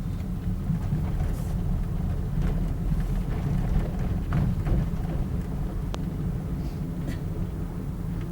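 Steady low road and engine rumble inside a moving car, with a few faint clicks.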